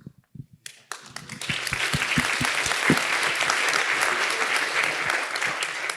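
Audience applauding after a talk ends. The clapping builds up about a second in, holds steady and thins out near the end.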